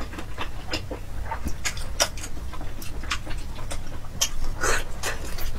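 Close-miked eating sounds: wet chewing and sticky mouth clicks while eating saucy braised pork, in an irregular patter, with a longer, louder wet smack about four and a half seconds in.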